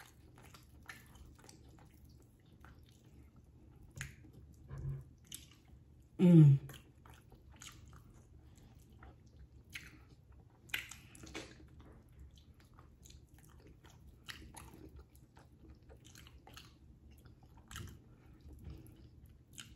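Close-up wet chewing and mouth smacks from a person eating fatty oxtail meat off the bone, scattered clicks and squelches. About six seconds in comes a short low hummed 'mm' that falls in pitch, the loudest sound.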